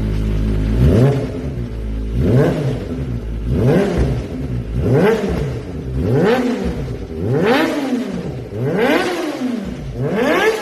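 Kawasaki ZX-25R's 250 cc inline-four engine being blipped over and over, about eight quick revs roughly a second and a half apart, each rising and falling back.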